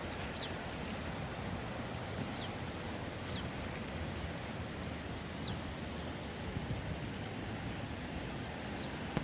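Steady rushing of water, with a few short, high, falling chirps scattered through it.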